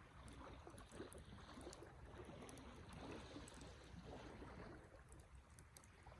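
Wood fire burning, with faint irregular crackling and small pops over a soft steady hiss.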